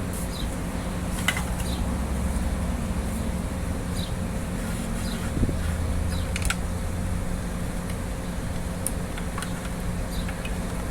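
A steady machine hum with a low drone, broken by scattered light clicks and taps.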